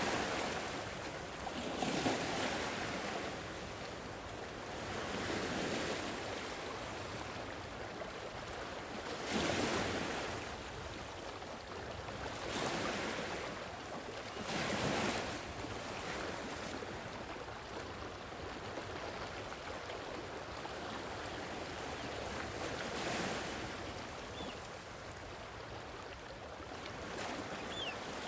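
Gentle sea waves washing onto the shore, swelling and falling back in irregular surges every few seconds over a steady wash of surf.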